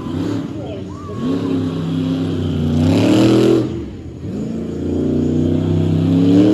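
Monster truck engine revving hard: it climbs in pitch to a loud peak about halfway through, cuts off abruptly, then winds up again.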